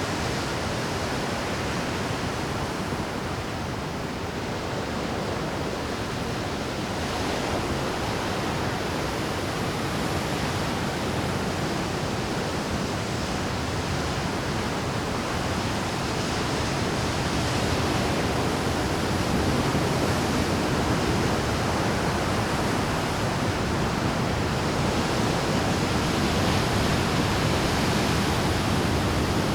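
Rough Pacific surf breaking continuously on a rocky shore, a steady dense rush of surging and crashing water that swells a little louder in the second half.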